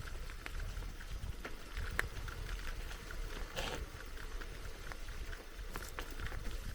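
Bicycle riding over a forest dirt track: a steady low rumble of tyres on the ground, with many small clicks and rattles from the bike and one brief scraping rush a little past halfway.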